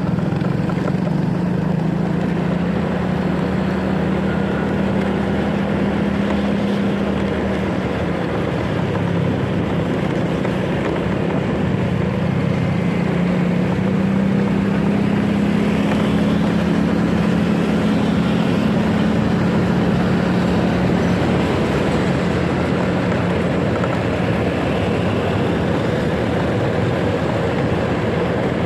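Motorcycle engine running steadily while riding in traffic, its note drifting slightly up and down, with wind and road noise on the microphone.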